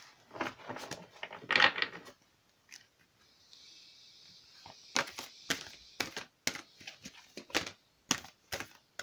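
A deck of oracle cards being shuffled by hand, with a series of short card slaps and riffles that settle into a rhythm of about two a second in the second half.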